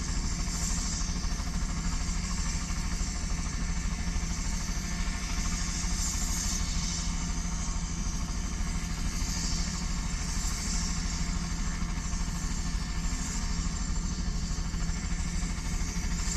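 Crop-dusting helicopter running steadily with its rotor turning, a fast low pulsing under an engine hum, with hiss that swells and fades every few seconds.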